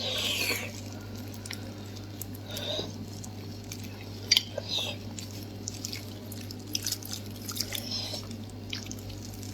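Close-up eating sounds of a person chewing chewy, gelatinous beef tendon, with scattered wet mouth smacks and small clicks and a brief noisy burst at the very start.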